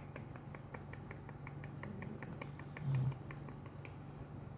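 ASMR clicking sounds: a steady run of small, sharp clicks, about five a second, that stops near the end, over a low steady hum. A brief louder low thud comes about three seconds in.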